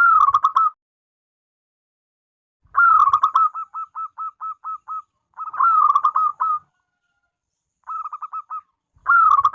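Zebra dove (perkutut) cooing: five bursts of its rapid, stuttering coo song, one of them trailing off into a string of evenly spaced single notes.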